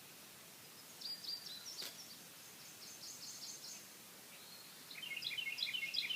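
A small songbird singing faintly in two runs of quick, repeated high chirps, the second starting about five seconds in, over a steady hiss. A single brief click comes about two seconds in.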